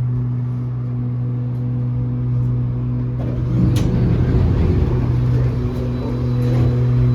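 Steady electric hum of a stopped airport people-mover tram car with its doors open, joined about three seconds in by a short rumble and a sharp click.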